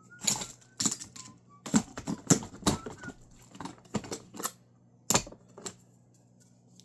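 Metal hand tools clicking and clattering, about a dozen irregular knocks as they are handled and sorted through. A faint wavering whistle is heard near the start.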